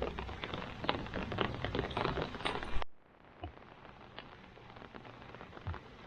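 Rain falling, a dense run of small drop taps. Nearly three seconds in, the sound drops suddenly to a fainter, sparser scatter of drops.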